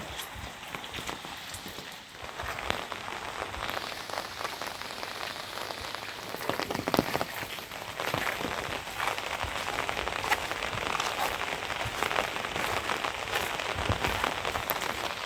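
Steady rain falling, with many separate drops ticking on a surface; it grows heavier about two seconds in and again around eight seconds in.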